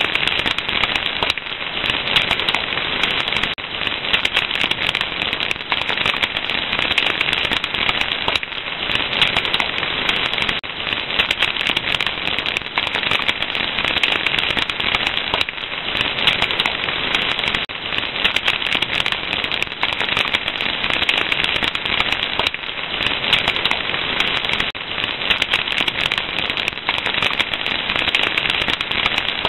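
Wood fire crackling: dense, constant pops and snaps over a steady hiss.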